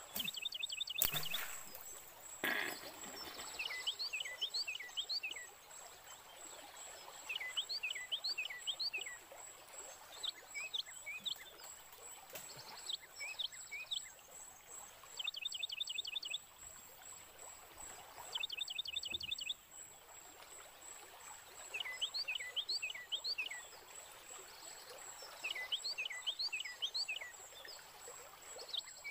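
A bird singing in swamp forest, repeating short phrases of quick whistled notes every couple of seconds, over a steady thin high whine. Two sharp knocks, about a second and two and a half seconds in, are the loudest sounds.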